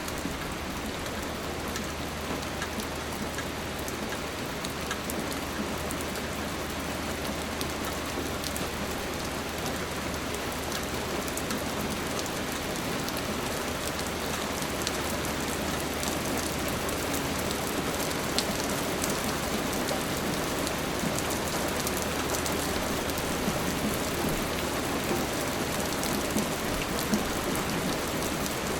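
Steady rain falling, a dense hiss with the ticks of individual drops hitting a surface, and a faint low hum underneath.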